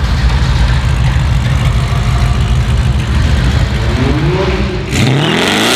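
A performance car's engine running with a deep, pulsing rumble, then revved hard about five seconds in, its pitch climbing steeply.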